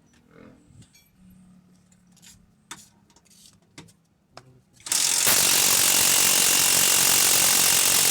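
A few light clicks and knocks of hand tools on metal, then, about five seconds in, a power tool starts and runs loud and steady with a thin high whine.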